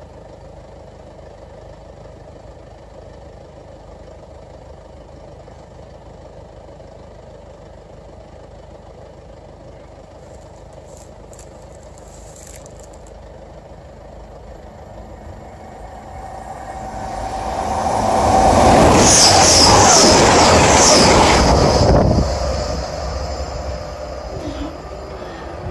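A train approaching and passing close by: a low rumble builds over a few seconds, is loud for about four seconds with a quick run of sharp high clicks, then fades away.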